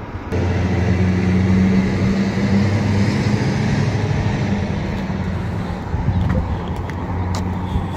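A motor vehicle's engine running steadily at low revs, coming in abruptly just after the start.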